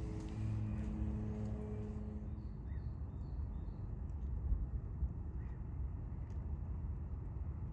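Outdoor ambience of a steady low rumble with faint short bird calls every few seconds, including a quick run of four high notes about three seconds in. A held musical tone stops about two seconds in.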